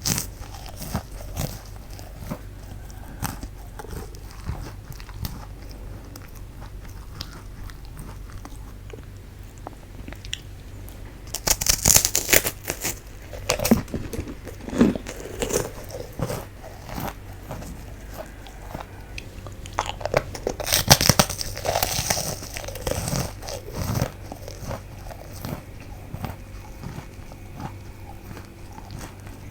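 Close-miked biting and chewing of fugashi, a crisp puffed wheat-gluten snack, with soft crunches and crackles throughout. There are two louder runs of crunchy bites, about twelve seconds in and again about twenty-one seconds in.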